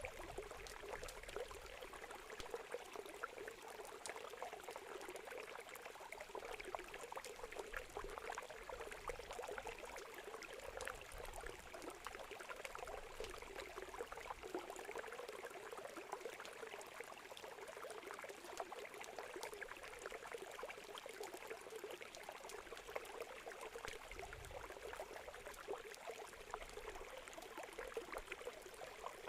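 Campfire wood crackling with many small scattered pops, over the steady rush of flowing river water.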